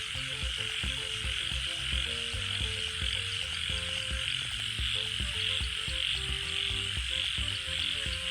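Frogs croaking in a chorus, many short irregular calls over a steady high hiss.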